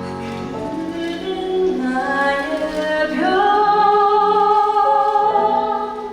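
Stage musical cast singing with female voices in the lead. About three seconds in, the voices slide up into a long held note.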